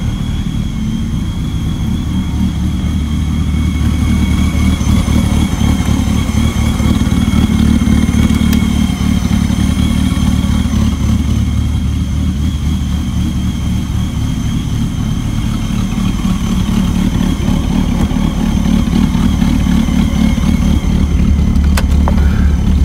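Supercharged 2004 Dodge Viper's V10 engine idling steadily, with a steady high whine over the engine note. A sharp click near the end.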